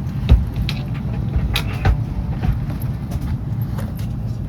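Steady low rumble with scattered short knocks and clicks, the sharpest about a third of a second in.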